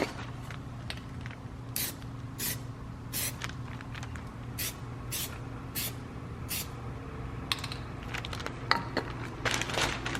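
Aerosol can of Plasti Dip spraying in about seven short hissing bursts a fraction of a second each, coating an exhaust tip. A few clicks and rattles follow near the end, over a steady low hum.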